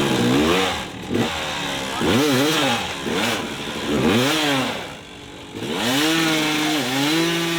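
Dirt bike engine revved hard in short bursts, its pitch rising and falling about four times. Near the end it holds one longer, steady high rev.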